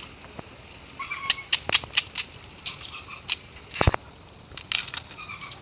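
Irregular sharp snaps and crackles of dry plant material being broken or trodden, with one heavier knock about four seconds in.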